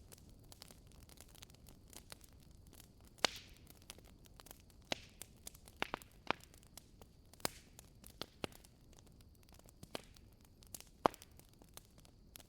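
Wood fire crackling in a fireplace: irregular sharp pops and snaps over a low steady hiss, with the loudest snaps about three seconds in and near the end.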